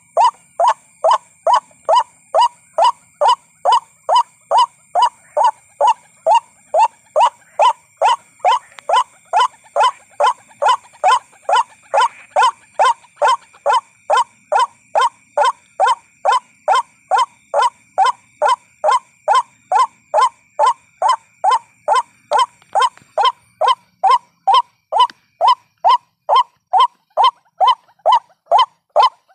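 White-breasted waterhen call: one short note repeated about twice a second in an even, unbroken series. Faint steady high tones sound behind it and fade out about three-quarters of the way through.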